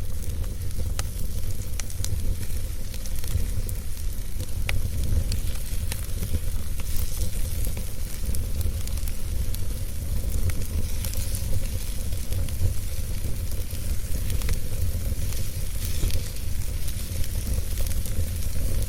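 Burning wood fire crackling: a steady low rumble and hiss, with sharp pops and snaps scattered throughout.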